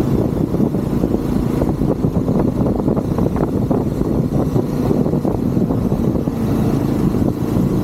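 Triumph Scrambler 400 X's single-cylinder engine running steadily while the bike is ridden, with a fast, even pulsing and no big change in revs.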